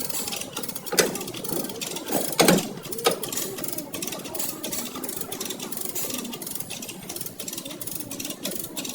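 A steady, fast rattling mechanical buzz of body-shop work, with three sharp metallic knocks about one, two and a half, and three seconds in.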